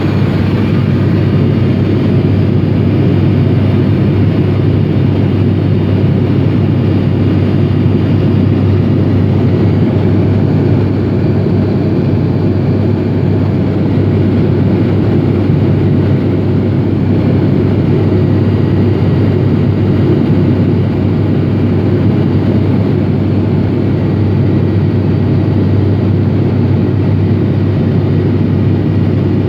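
Cabin noise of an ATR72-500 turboprop airliner in flight: a steady drone from its two propeller engines, with a constant low hum over a rush of airflow.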